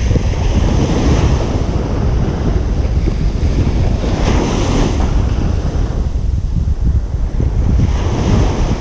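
Ocean surf breaking on a beach: a constant low rumble of water, with louder washes of wave about a second in, around four seconds in, and near the end.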